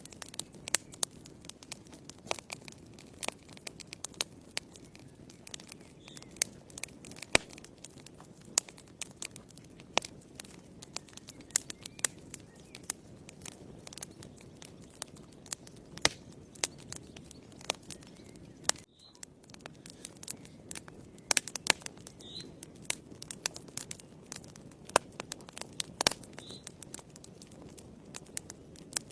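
Wood fire in a fireplace crackling: frequent sharp pops and snaps over a low, steady rush of burning.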